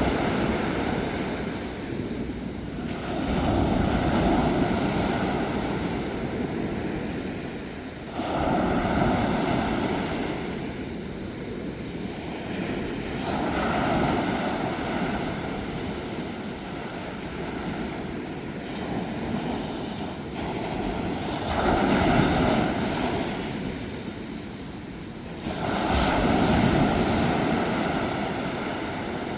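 Ocean waves breaking on a shore, one after another. Each wave rises to a rush and washes away, with a new wave about every four to five seconds.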